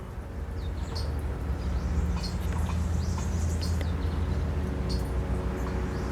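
Several short, sharp, high bird chip notes at irregular intervals, over a steady low rumble.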